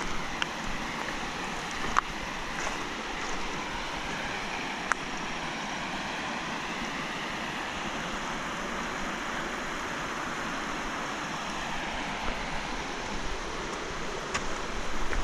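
River water rushing steadily, with a few sharp clicks, one loudest about two seconds in.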